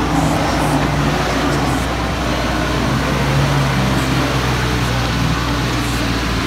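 Four-wheel-drive vehicle's engine running under load off-road, a steady drone with its pitch shifting up and down as the revs change.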